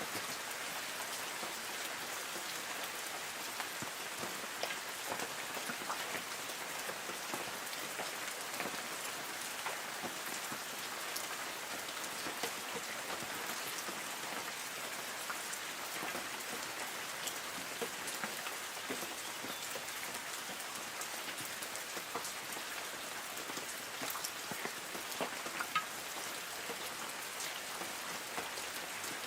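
Light rain falling on forest trees: a steady patter of drops on leaves, with scattered single louder drips.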